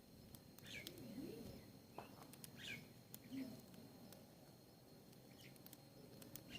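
Faint, scattered bird chirps: a handful of short, high calls a second or so apart.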